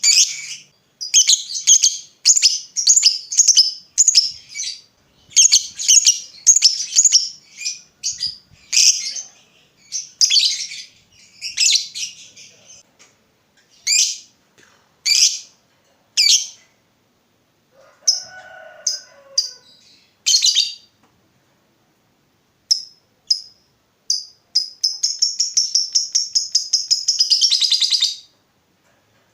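Lovebird in full song: runs of shrill, rapid chirps broken by short pauses, then near the end a long unbroken rattling trill of about three and a half seconds, the drawn-out 'ngekek' call.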